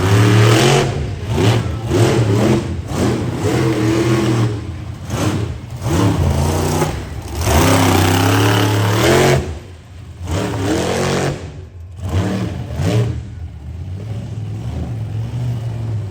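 Monster truck engine revving hard in repeated surges, its pitch climbing and falling as the throttle is worked, with short lifts off the throttle about ten and twelve seconds in.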